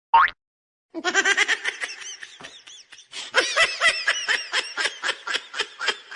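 A person laughing hard: after a brief sound at the start, a long run of quick, high-pitched laughing pulses begins about a second in and keeps going.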